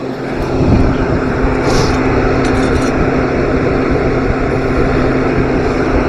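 A steady mechanical running noise with a constant low hum, growing louder in the first second.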